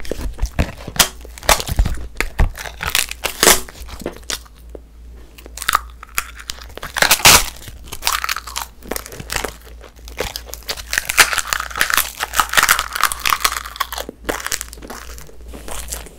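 Close-miked biting and chewing of a thin sheet of green-apple-flavoured edible coloured paper: irregular dry crunches and crisp crackles, with a dense spell in the middle and another near the end.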